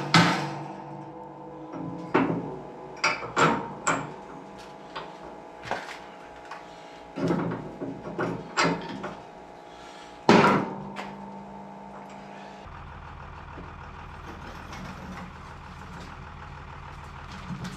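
Repeated sharp metal clanks and knocks, about a dozen, from work on a snowplow's frame and hydraulic ram. About 13 seconds in they stop and a steady low engine hum takes over: the plow truck's engine running at idle.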